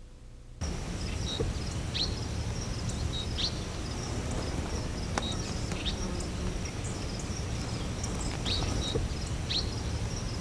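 Outdoor nature ambience starting suddenly about half a second in: birds giving short, falling chirps every second or so over a steady noisy background.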